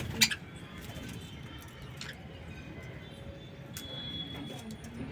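Pigeons cooing in a steady low murmur, with a sharp click just after the start.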